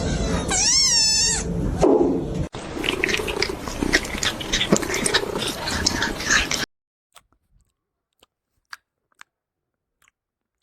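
A kitten meows once with a wavering pitch, then gives a shorter, lower call. This is followed by about four seconds of busy clicking and rustling, after which the sound drops away to a few faint ticks.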